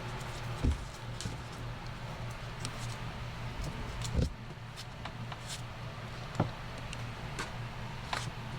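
Steady low machine hum with a few sharp knocks and clicks scattered through it, typical of work at a shoe repair bench.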